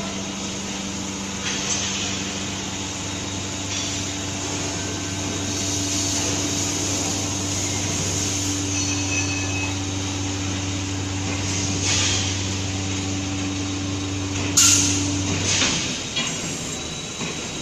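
Wrecker truck's engine and working gear running with a steady hum that cuts off near the end. A few short hissing bursts come over it, the loudest shortly before the hum stops.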